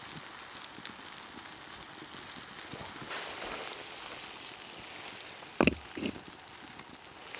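Open wood fire crackling in a stone hearth, with a steady hiss and many small pops. Two short, louder knocks come a little past five and a half seconds in.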